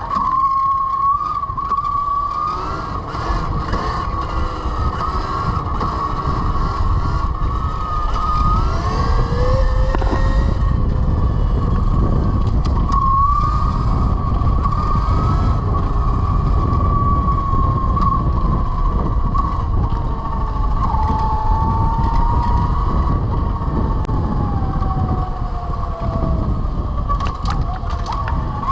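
Velimotors VMX12-F electric motorcycle's 12 kW motor whining under way, its pitch gliding up and down as speed changes, over a steady high whine. Heavy low wind and road rumble lies underneath.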